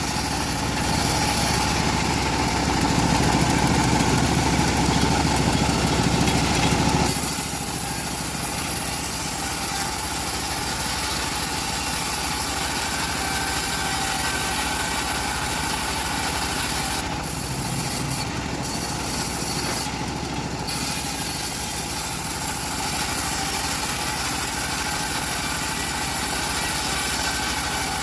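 Engine-driven, Indonesian-built bandsaw sawmill running steadily while it rips old teak. Its deep hum drops away sharply about seven seconds in, leaving a steady running noise.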